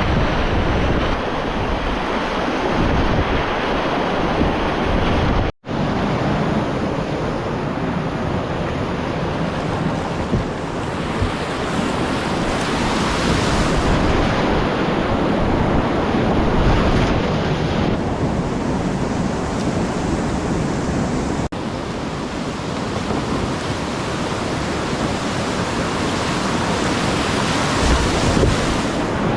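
Rushing river whitewater with wind buffeting the microphone, a steady noise that cuts out for an instant twice, about five seconds in and about twenty-one seconds in.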